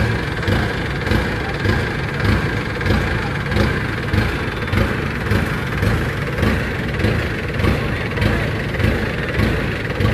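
Heavy farm machinery's diesel engine running steadily, its sound swelling and easing in a regular pulse a little under twice a second.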